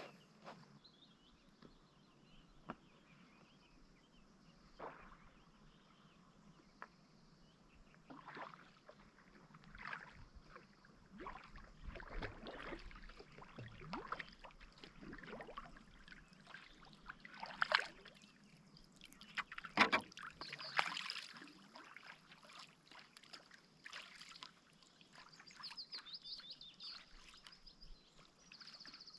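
Faint kayak paddle strokes: the blades dip, splash and drip in calm loch water at an unhurried, irregular pace, with a few louder splashes a little past the middle.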